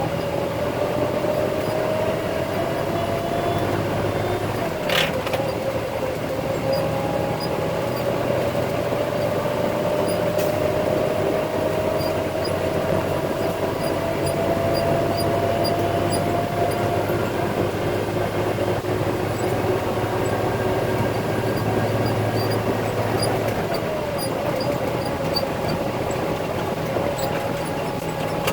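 Concrete truck's diesel engine running under load on a steep climb, a whine rising slowly in pitch over a steady low hum. The pitch drops abruptly with a sharp click about five seconds in, climbs again, and falls again near the end.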